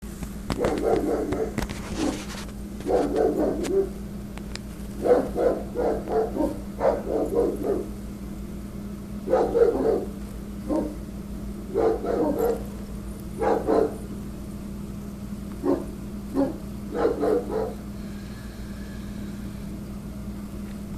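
Rottweiler barking angrily in rapid volleys of several barks, with pauses of a second or two between volleys, and falling silent near the end. A steady low hum runs underneath.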